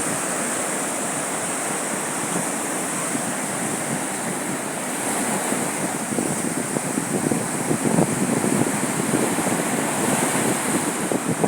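Sea surf washing onto a beach, a steady rushing noise, with wind buffeting the microphone in irregular gusts.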